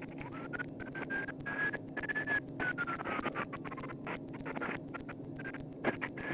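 A distant siren wailing, its pitch slowly rising and falling twice, over a steady low hum and a stream of faint clicks and crackles.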